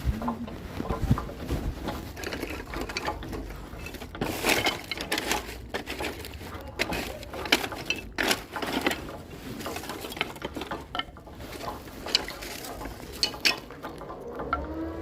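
Irregular knocks and clatter in a sawmill while the saw is not cutting. Near the end a motor starts up with a rising hum that then holds steady.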